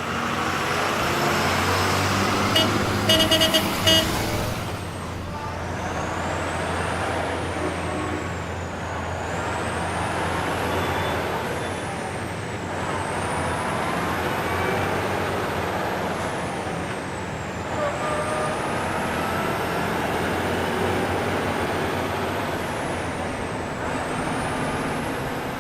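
Garbage truck engine and road noise, running steadily as the truck drives. About three seconds in there is a quick cluster of loud, sharp pitched blips, and a faint high whine rises and falls over and over.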